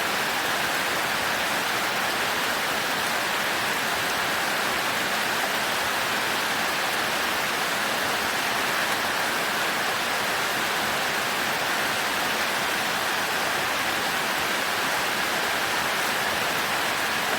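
Heavy rain falling in a steady, even hiss, without thunder.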